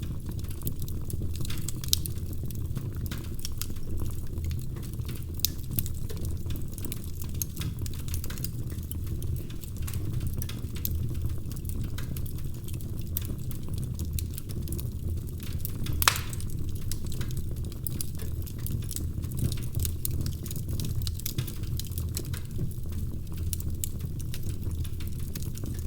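Wood fire crackling in a fireplace: a steady low rumble of flame with frequent small snaps and a louder pop about two-thirds of the way through.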